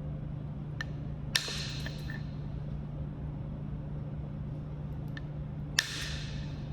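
Knapping strikes on Kentucky hornstone: two sharp cracks, about a second and a half in and near the end, each with a short ring, with a few lighter clicks between them.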